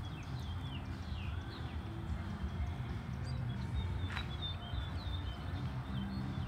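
Small songbirds chirping repeatedly in short falling notes over a steady low rumble, with one sharp click about four seconds in.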